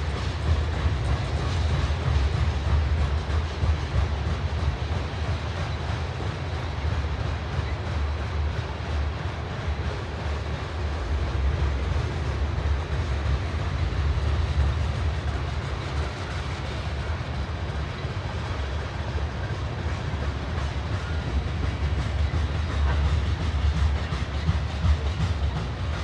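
Train cars rolling past at close range: a steady low rumble of steel wheels on the rails.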